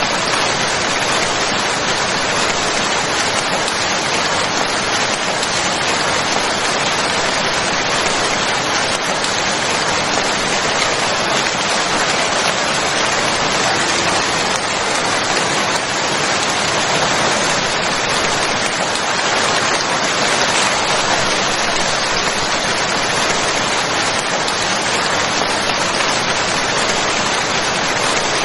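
Steady, heavy rain falling, a dense even hiss of drops with no breaks or distinct events.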